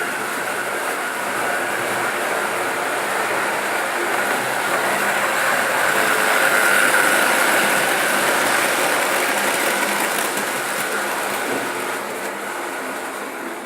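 Märklin model train running along the track, a steady whirring rumble of motor and wheels that grows louder toward the middle and eases off near the end.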